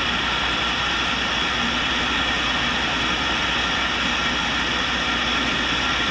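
Tool and cutter grinder running steadily, a continuous hiss and hum with the wheel spinning and not cutting.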